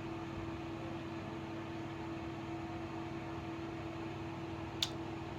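Fan running with a steady hum and a constant mid-pitched tone in a small room; one sharp click near the end.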